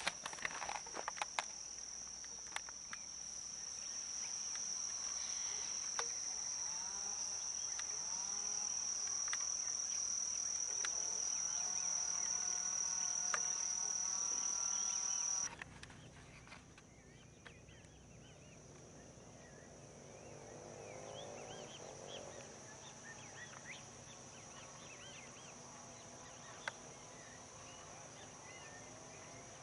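A steady, high-pitched insect trill with songbirds chirping and calling over it. The trill drops suddenly in level about halfway through, while the bird calls go on; a few sharp clicks come in the first couple of seconds.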